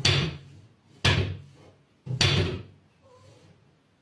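Three loud bangs about a second apart, each starting sharply and dying away over about half a second.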